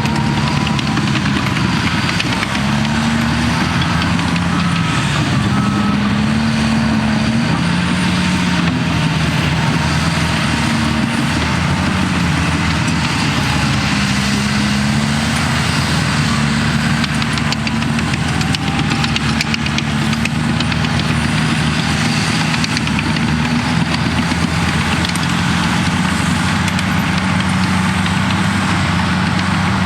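Cat D6T bulldozer's diesel engine running under load while stripping topsoil, its pitch rising and falling every few seconds.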